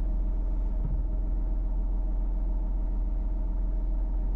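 Car engine idling, a steady low hum with an even tone that does not change.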